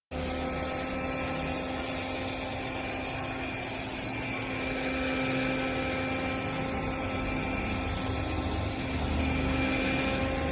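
Cordless handheld dust mite vacuum cleaner running steadily: a motor whine over rushing air, cutting in suddenly at the start.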